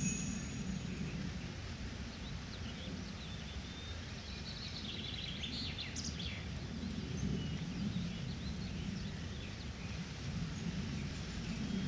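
Recorded forest ambience: birds chirping in short scattered calls, busiest in the middle, over a steady low rumble.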